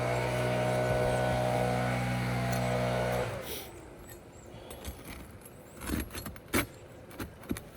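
A steady motor hum that cuts off about three seconds in, followed by scattered sharp clicks and short scrapes of a tool prying at asphalt roof shingles.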